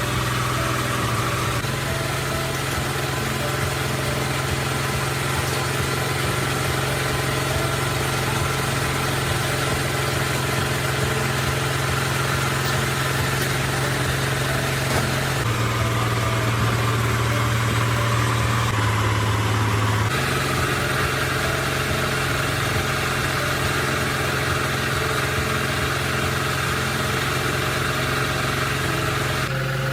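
Mercedes truck's diesel engine running at idle, a steady hum whose pitch dips about halfway through and comes back up a few seconds later.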